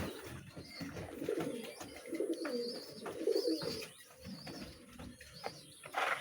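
Pigeons cooing, low repeated coos, with a short clattering noise near the end.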